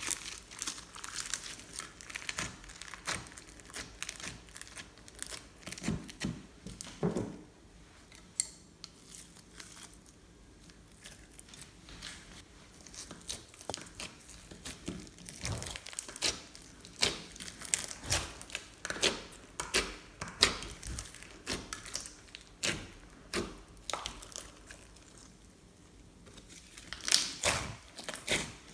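Slime being squished and kneaded by hand, giving off irregular sticky crackles and clicking pops, with a quieter spell partway through and a quick run of pops near the end.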